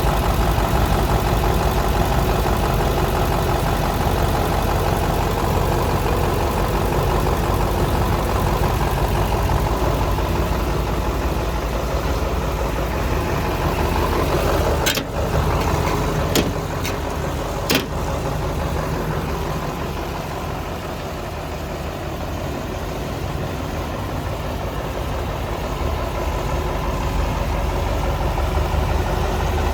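Mercedes-Benz 2628 K tipper truck's diesel engine idling steadily, with three sharp clicks about halfway through.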